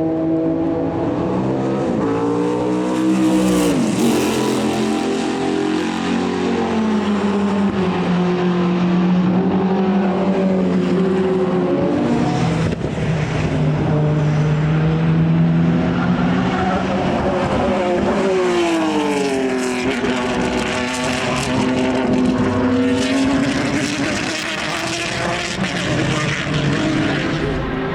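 Racing car engines running hard on a circuit, pitch sweeping down and back up several times as the cars brake, change gear and accelerate.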